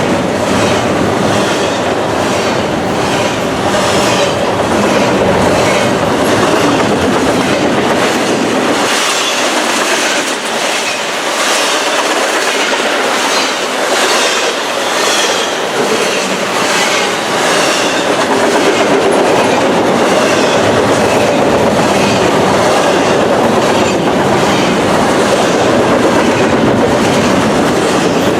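Train cars rolling past on the mainline, wheels clicking in a steady rhythm over rail joints amid loud running noise.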